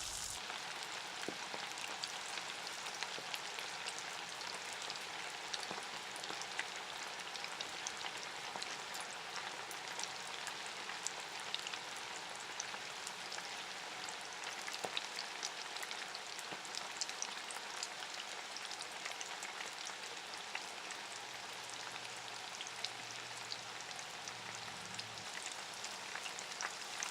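Batter-coated chicken pakoda pieces deep-frying in hot oil on a medium flame: a steady sizzle with many small crackles and pops.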